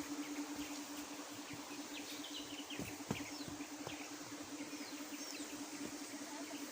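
Woodland birds chirping with many short, falling notes over a steady low hum, with a couple of soft thumps about three seconds in.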